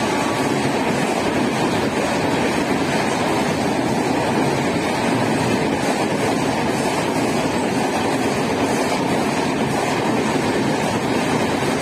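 Express train's passenger coaches passing a station platform at speed: a steady, even rush of steel wheels on rail and moving air, with no horn and no clear clickety-clack rhythm.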